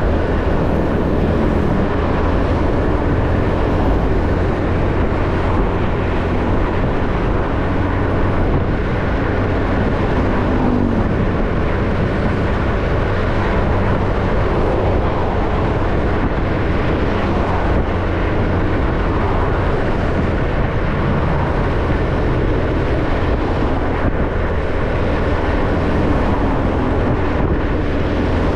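A motorbike being ridden along a road: steady engine, tyre and wind noise with no letting up.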